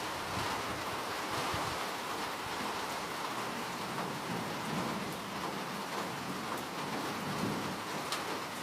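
Steady rain falling, a constant hiss with a few sharper drop ticks near the end.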